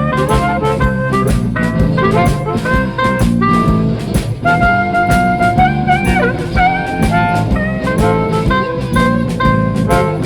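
Live band playing an instrumental passage: a steady drum-kit beat and bass under a lead line of held, bending notes.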